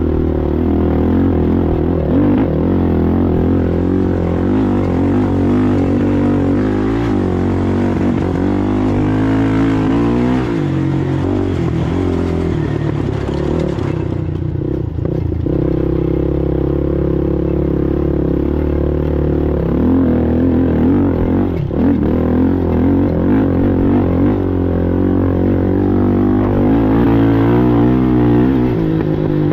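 Racing ATV engine running hard, its pitch rising and falling as the throttle is worked.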